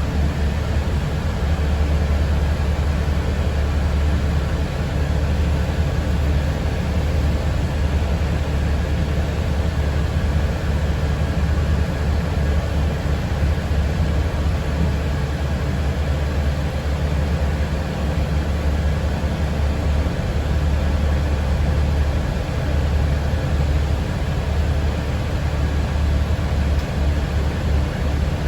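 Steady low rumble of a moving city public-transport vehicle heard from inside the passenger cabin.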